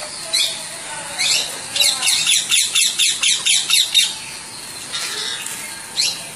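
High, sharp bird chirps that drop in pitch, with a fast run of about five or six a second from about two to four seconds in, then a few single chirps.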